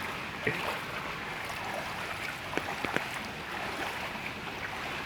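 Steady rush of floodwater running across a street, with a few short splashes.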